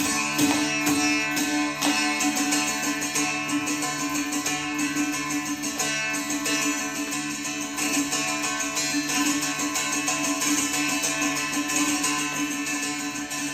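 Carnatic music: a plucked string instrument playing quick notes over a steady held drone.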